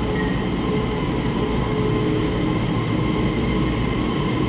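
Taiwan Railway EMU3000 electric multiple unit running along the platform: a steady rumble of wheels on rail with a steady hum. A faint high whine slides down slightly and fades out in the first second and a half.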